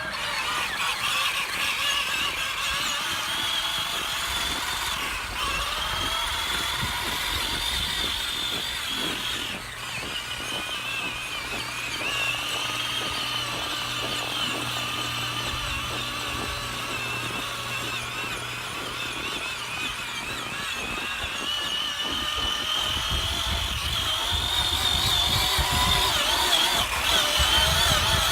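Electric drive of a 24V Peg Perego John Deere ride-on toy tractor, its 775 motors whining high and steady through the gearbox as it drives through snow. The whine dips in pitch a few times under load and climbs gradually after about twenty seconds, over a low rumble.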